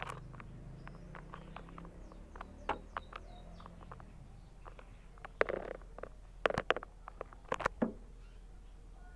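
Caged canary: a few faint, short chirps among scattered sharp taps and clicks. The taps grow busier and louder about halfway through.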